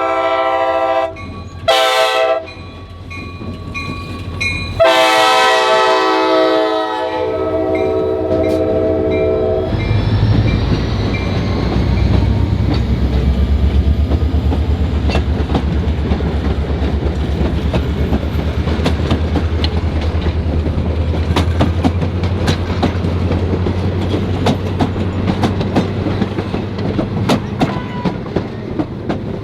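Diesel locomotive air horn sounding: a blast ending about a second in, a short blast, then a long blast of about five seconds, the closing notes of a grade-crossing signal. The EMD diesel locomotives then pass with a low engine rumble and steady clicking of wheels over rail joints.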